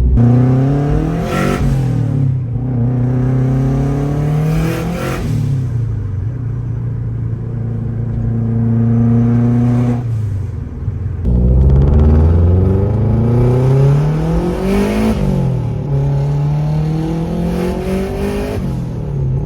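Loud exhaust of a turbocharged boxer-four Subaru Forester XT tuned to around 500 horsepower, heard from inside the car as it is driven hard. The engine pitch climbs and drops back at gear changes several times, with a stretch of steady cruising in the middle.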